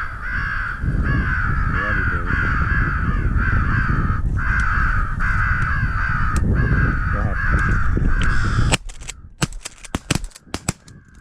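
Crows cawing in a steady run of harsh calls about one a second, over a low rumble, cutting off abruptly near the end; a few faint clicks follow.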